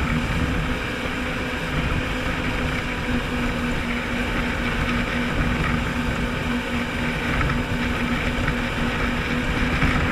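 Jet ski engine running steadily underway, its steady drone over the rush of water and wind.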